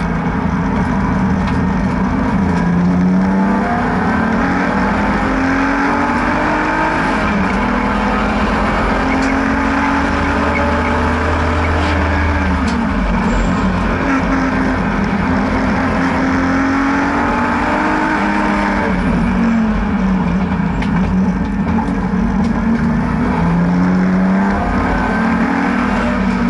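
BMW N52B30 3.0-litre naturally aspirated straight-six in an E36 race car, pulling hard and easing off on track, its pitch climbing and dropping several times.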